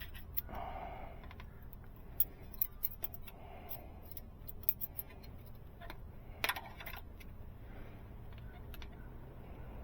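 Scattered light metallic clicks and clinks of wrenches working on a truck diesel engine's overhead valve train during a valve lash adjustment, with one brighter ringing clink about six and a half seconds in.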